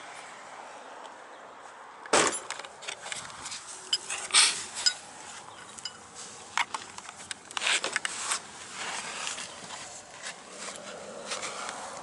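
Irregular metallic knocks and clanks of hands and a tool working around the Jeep's starter, beginning about two seconds in and spaced unevenly with short quiet gaps.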